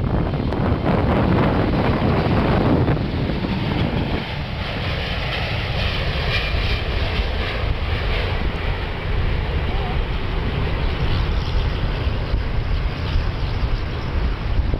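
Airbus A380's jet engines running as the airliner departs, heard through heavy wind buffeting on the microphone. A higher whine rises out of the noise for a few seconds around the middle.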